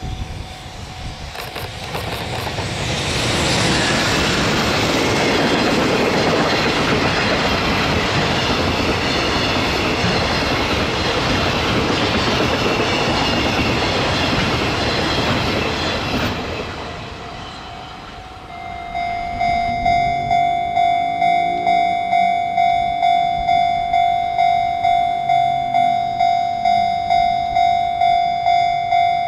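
A JR Freight container train hauled by an EF210 electric locomotive approaches and passes close by, its wheels running over the rails for about fifteen seconds before fading away. A few seconds later a railway level crossing bell starts ringing steadily, about two strikes a second.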